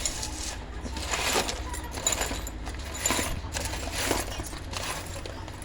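Small metal parts of a table fan clinking and clattering as they are handled and worked on, in irregular taps and knocks over a steady low hum.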